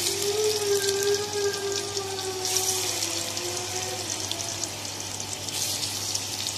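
Bitter gourd (karela) pieces sizzling in hot ghee in a kadhai, a steady hiss that swells again about two and a half seconds in and near the end.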